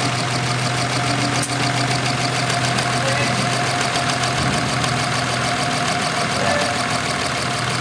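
Car engine running steadily, with an even low hum.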